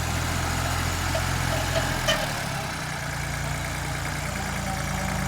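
Tractor engine running steadily at a low idle. About two seconds in there is a short sharp clack, and the engine note changes slightly.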